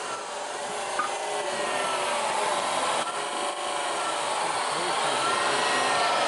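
A power tool running steadily, with a faint wavering whine, growing slightly louder.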